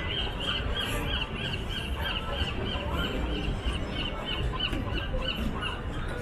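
A bird calling: a fast, even run of short high chirps, about four a second, that stops near the end.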